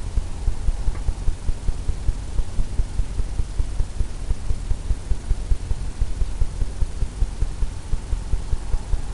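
Paintbrush tapping repeatedly against a stretched canvas on an easel, a run of dull, low thumps about three a second.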